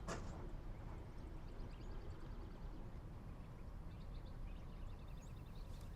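Faint background ambience with a low steady hum, overlaid by a few quick trains of soft, high chirps.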